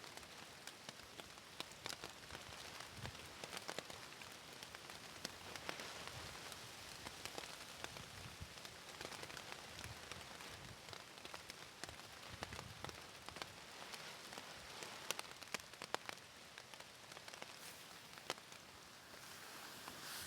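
Rain falling steadily, with many irregular sharp drop ticks on a thick polythene sheet sheltering a hammock camp.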